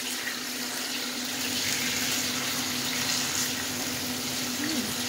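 Raw chicken pieces frying in hot oil in a non-stick wok, a steady sizzle, with a low steady hum underneath.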